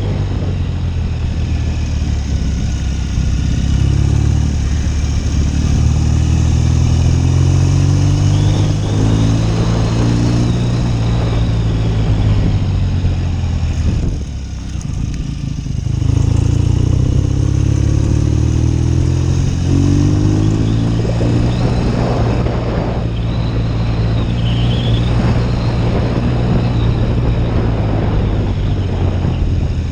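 A 1972 BSA Lightning's 650 cc parallel-twin engine is under way on the road. Its pitch climbs and drops back several times as it accelerates through the gears, with a brief drop in loudness about halfway through as the throttle closes.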